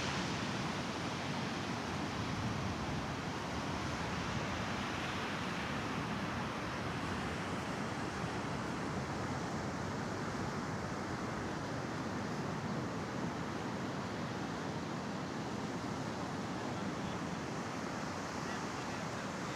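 Mediterranean surf washing onto a sandy beach: a steady rushing wash of waves with no clear single breaks.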